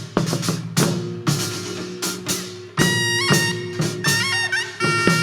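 Korean traditional music accompanying a Jindo drum dance: repeated strokes on a barrel drum, joined about halfway through by a wind instrument playing a melody that bends and slides in pitch.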